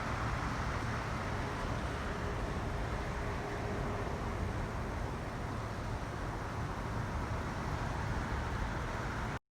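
Steady road and engine noise of a moving vehicle, with a low rumble and a faint steady hum. It cuts off abruptly near the end.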